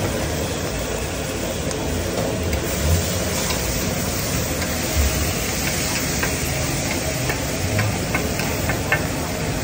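Liver (kaleji) frying on a tawa griddle: a steady sizzle while it is stirred, with a run of light sharp clicks in the second half and a few dull thumps.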